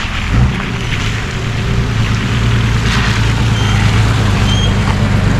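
Nissan Patrol GU four-wheel drive driving up and pulling in close, its engine running steadily and growing a little louder as it nears.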